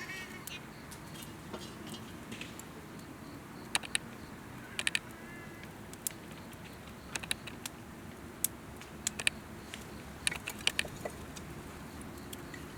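Campfire wood crackling, with irregular sharp pops and snaps about once a second over a low steady burning sound.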